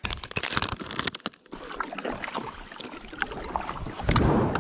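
Water sloshing and splashing around a kayak on a river, mixed with many irregular small clicks and knocks, and a heavier low rumble near the end.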